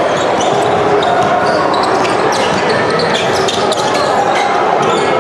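Basketball game sounds: a ball bouncing on the court over a steady din of crowd chatter.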